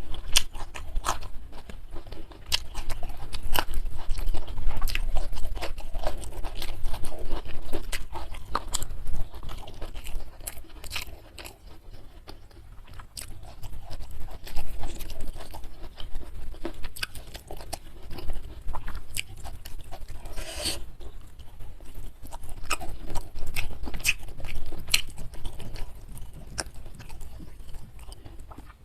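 Close-miked eating: a person biting and chewing crunchy food, with a run of sharp crunches and clicks. It goes quieter about twelve seconds in, and there is one louder crunch about twenty seconds in.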